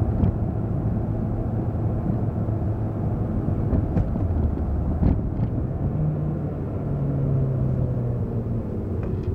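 Car driving along: steady engine hum and road rumble, the engine note shifting pitch about six seconds in.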